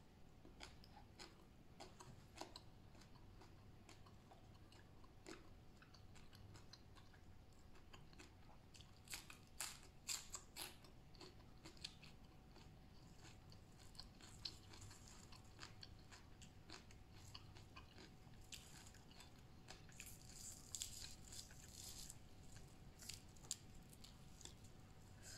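A person chewing a mouthful of raw cabbage leaf wrapped around green papaya salad: faint, crisp crunches at an irregular pace, with louder bouts of crunching about nine to eleven seconds in and again around twenty to twenty-two seconds in.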